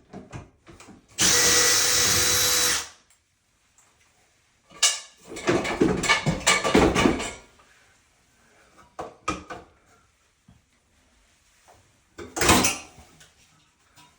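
A power drill runs in one steady burst of about a second and a half, backing out the screw that holds a bathroom exhaust fan's motor. After it come a couple of seconds of metal rattling and clattering as the fan parts are worked loose, and one sharp clatter near the end.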